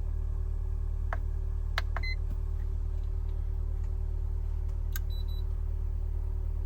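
A steady low machine hum with a few light clicks, and short high electronic beeps about two seconds in and again about five seconds in.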